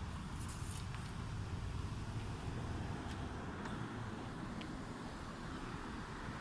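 A car running: a steady low rumble of engine and road noise.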